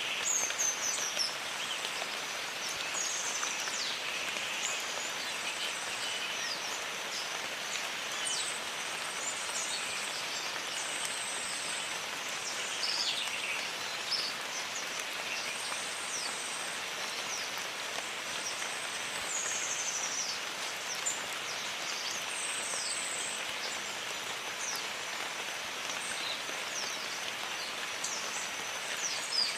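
Steady rain in a jungle, with birds calling over it: many short falling whistles and brief high trills scattered throughout, and a faint steady high tone.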